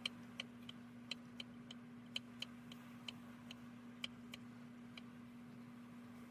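A series of light, sharp clicks at an uneven pace, roughly two a second, over a steady low hum.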